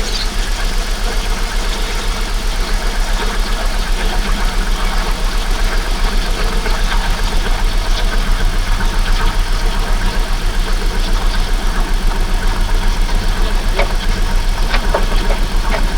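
Holden VX Commodore's 3.8-litre Ecotec V6 idling steadily, warming up after its first start in about three years. A few light clicks come near the end.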